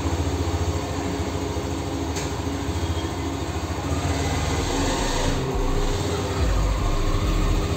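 Hero Xtreme 125R's single-cylinder engine idling steadily, the note deepening and getting stronger in the last few seconds.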